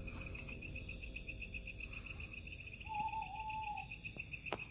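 Night insects, crickets, chirring steadily in fast, even pulses. About three seconds in, a single wavering whistle-like call lasts about a second, and a sharp click comes near the end.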